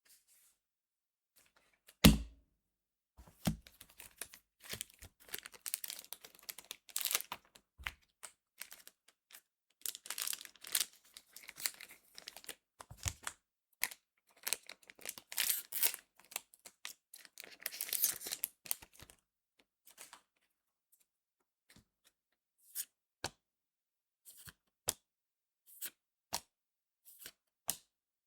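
A foil trading-card booster pack being torn open and crinkled, in stretches of dense crinkly rustling. There is one heavy thump about two seconds in, and toward the end a run of separate short, sharp clicks.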